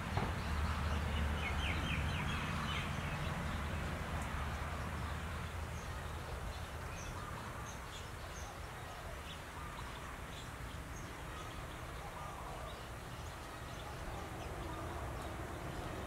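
Small songbirds chirping outdoors: a quick run of short chirps about a second in, then scattered faint chirps, over a low steady rumble.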